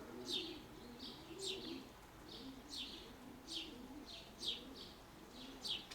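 Pigeons cooing low and steadily, with small birds chirping over them, short high chirps about twice a second.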